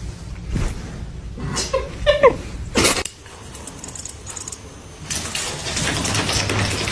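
A domestic cat meowing, a few short calls about two seconds in, followed by a brief loud noisy burst; a steady noise fills the last two seconds.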